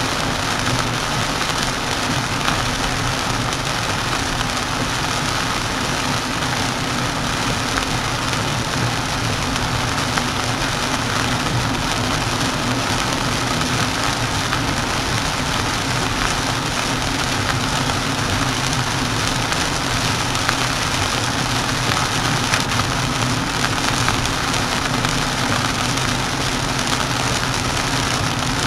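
Heavy rain hitting a moving car, over steady tyre and road noise, heard from inside the car through a windshield-mounted dashcam's microphone.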